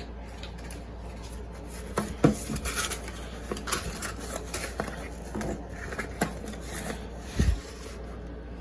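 A cardboard parcel and its packing being opened and handled by hand: scattered light taps, scrapes and rustles, with a dull thump about seven and a half seconds in.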